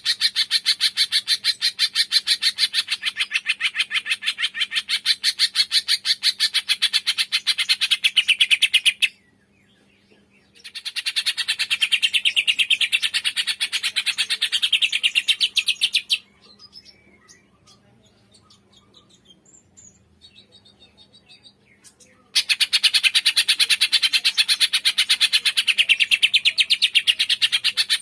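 Recorded songbird masteran song: a high, fast, evenly pulsed trill in long runs. It breaks off briefly about nine seconds in, then gives way to a quieter stretch of scattered single chirps before the trill resumes.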